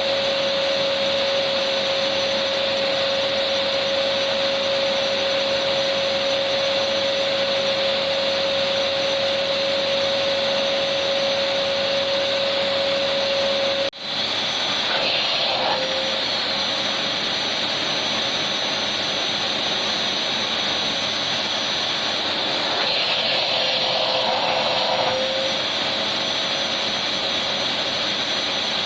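Electric vacuum cleaner running steadily, an even rushing noise with a steady whine. About halfway through there is a sudden momentary dropout, after which the whine falls away and the motor noise carries on.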